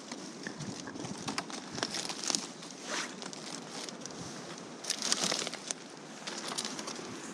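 Dry leaves and twigs crackling and rustling on the forest floor, in irregular crunches, with a louder burst of rustling about five seconds in.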